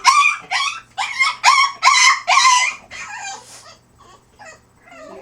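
French bulldog making a rapid string of short, high, whining, howl-like calls, about eight loud ones in three seconds, then fainter ones. These are the human-sounding vocal noises the breed is known for.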